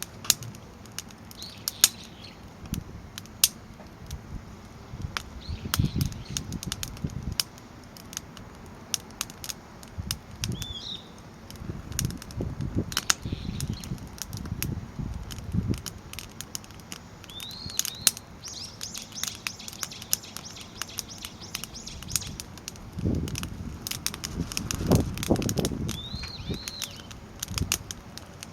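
Crib-stacked firewood burning in a fire pit, crackling with many sharp snaps and pops at irregular intervals and low rushing swells of flame now and then. A bird chirps a few times.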